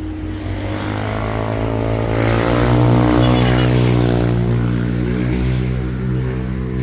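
Truck engine pulling away: its pitch and loudness rise over the first few seconds as it accelerates, then hold roughly steady.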